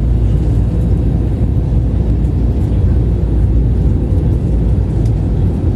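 Steady low rumble of an Airbus A320 in flight during its landing approach, engine and airflow noise heard inside the cabin, with a faint steady hum over it.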